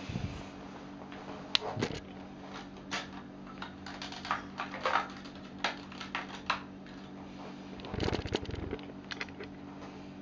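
Plastic Lego Technic parts being handled, with irregular light clicks and knocks and a short buzzing rattle about eight seconds in, over a steady low hum.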